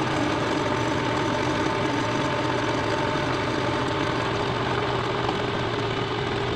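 Milling machine running steadily with an end mill in the spindle: an even mechanical hum with a few constant whining tones, typical of a long machining pass such as facing the engine frame.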